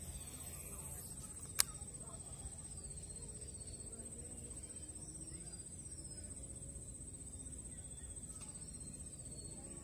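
A bird repeating short falling chirps over a steady high-pitched whine, with one sharp click about a second and a half in.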